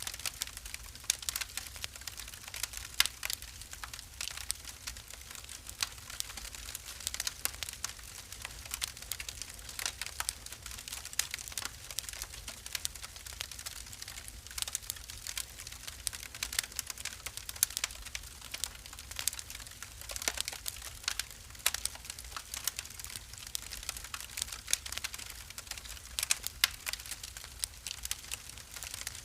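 Wood fire in a fireplace crackling: irregular sharp pops and snaps, several a second, over a soft steady hiss and low rumble of the flames.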